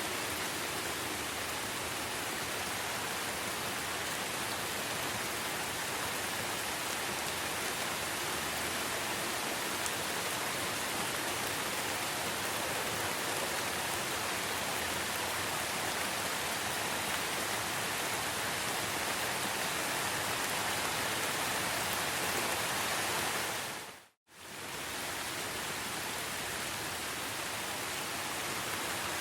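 Steady rainfall, an even hiss of falling rain. About four-fifths of the way through it fades out to silence for a moment and fades straight back in, like a loop point in the recording.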